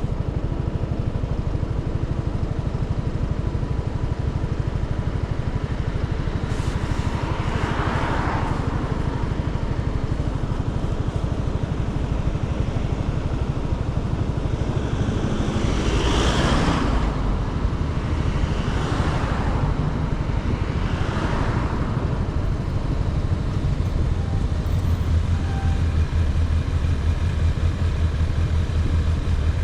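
Motorcycle engine running on the road, a steady low rumble throughout, with several swells of passing traffic noise in the middle and a steadier low hum over the last few seconds.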